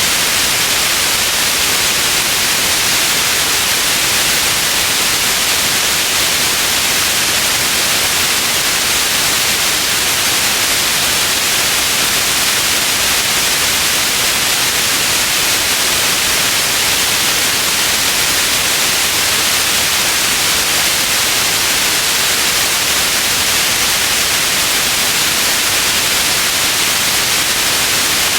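Steady white noise hiss, even and unchanging, strongest in the upper range, from a continuous sleep-noise recording.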